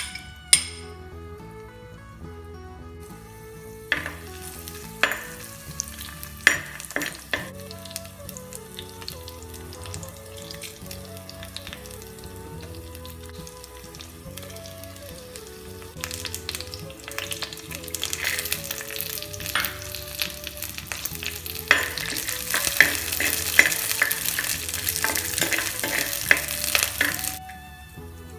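Garlic, dried red chillies, curry leaves and peanuts sizzling as they fry in hot oil in a clay pot, with a few sharp taps of a spoon. The sizzle grows louder in the second half and drops away just before the end.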